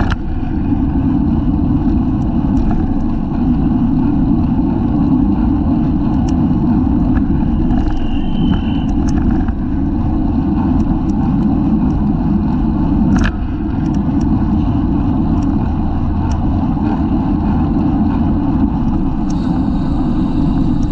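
Heavy wind rush on a bicycle-mounted camera's microphone with road and tyre noise while riding at race speed, broken by scattered sharp clicks and knocks, the loudest about thirteen seconds in.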